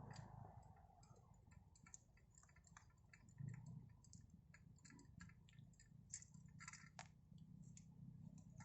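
Near silence: faint, irregular small clicks and ticks over a low hum.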